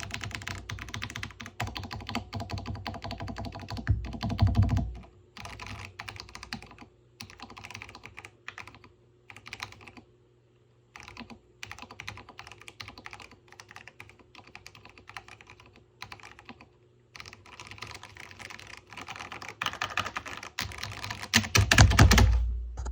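Typing on an OLKB Preonic mechanical keyboard with spray-lubed Gateron Pro Purple tactile switches. It starts as fast continuous typing, thins to slower, scattered keystrokes through the middle with a brief pause, and speeds up again toward the end. Loud deep thuds come about four seconds in and again near the end.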